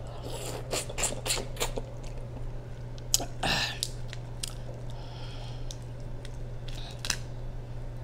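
Close-up mouth sounds of chewing a boiled jumbo prawn: a quick run of sharp, wet clicks in the first two seconds, then a wetter smack about three and a half seconds in and scattered clicks after. A steady low hum runs underneath.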